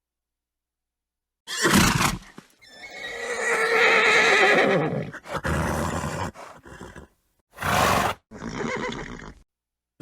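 Horse calling: a short noisy blow about a second and a half in, then a long quavering whinny, then several shorter calls, with dead-silent gaps between them.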